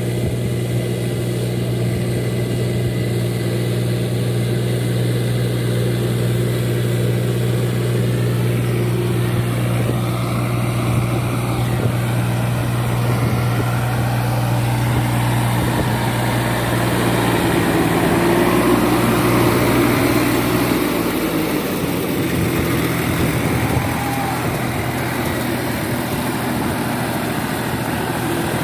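Four-wheel paddy tractor's engine running steadily, its low note changing about three quarters of the way through.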